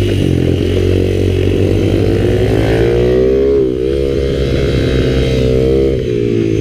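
Kayo mini bike engine running hard on track, its revs rising and falling as it rides, with a drop in revs about three and a half seconds in before it pulls up again.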